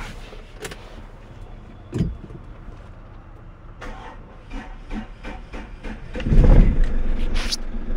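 Clicks and rustling with a single thump about two seconds in, then about six seconds in a Hyundai Accent's engine is started, catching with a loud low burst and settling into a steady idle.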